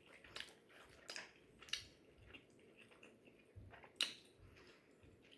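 Faint close-up eating sounds: chewing with scattered wet mouth clicks and smacks, the sharpest about four seconds in.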